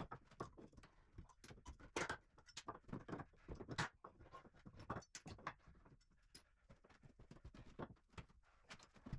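Faint, irregular knocks and clatter of wooden floorboards being pried up and handled, a few sharp knocks every second with softer scrapes between them.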